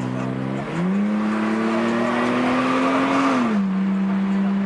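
Car engine revving at a street meet: its pitch dips, climbs back about a second in and is held high while slowly rising, then drops to a steady lower pitch about three and a half seconds in. A rushing hiss, likely tire noise, runs under the held revs and stops when they drop.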